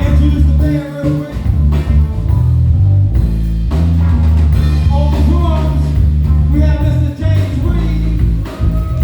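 Live band playing a blues-flavoured number: heavy bass and drums under a guitar, with wavering melodic lines above.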